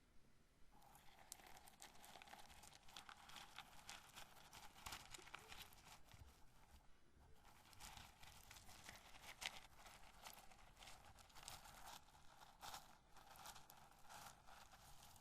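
Roasted corn kernels handled close to the microphone: a dense, quiet stream of small crisp clicks and rustles as the kernels are rubbed and tumble against each other, pausing briefly about half a second in and again about seven seconds in.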